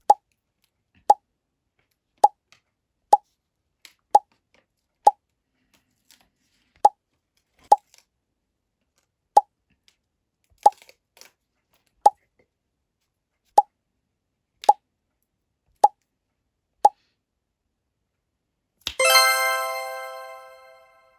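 A cartoon "plop" sound effect, the same short pop repeated about fifteen times at uneven intervals of roughly a second, each one marking a foam sticker being placed. Near the end a bright chime rings out and fades over about two seconds.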